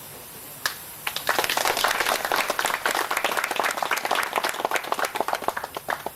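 A small audience applauding: one early clap, then dense clapping from about a second in that stops just before the end.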